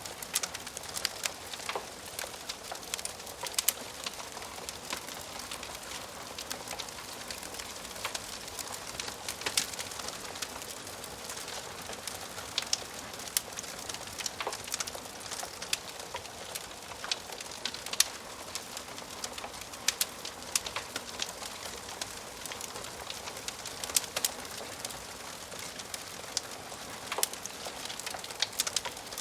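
Wood fire crackling in a fireplace: irregular sharp pops and snaps, several a second, over a steady soft hiss of the flames.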